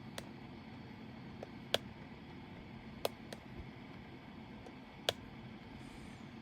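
Diamond painting drill pen placing resin drills on the canvas: sharp, irregular little clicks, roughly one a second, over a low steady background hum.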